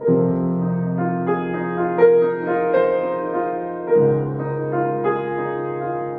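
Piano music: slow melody over held bass notes, a new chord struck at the start and the bass changing about four seconds in.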